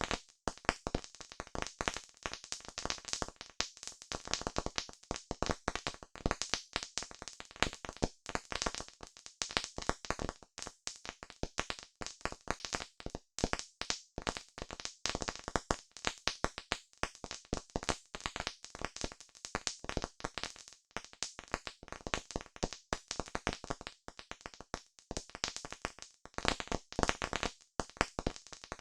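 Campfire crackling: wood burning with dense, irregular pops and snaps over a soft hiss.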